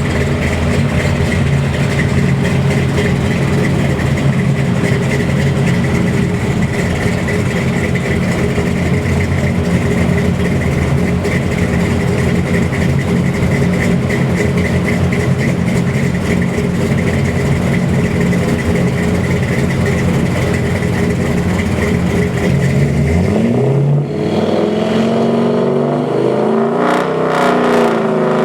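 Chevy 350 small-block V8 crate engine, built to 420 hp, running on an engine dyno. It holds a steady speed, then about 23 seconds in the revs climb and rise and fall through the last few seconds.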